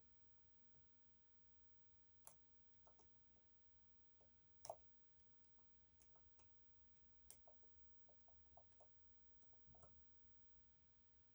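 Faint, irregular metal clicks of a lock pick working the sliders inside an EVVA 3KS high-security lock under a tension wrench, the loudest about halfway through.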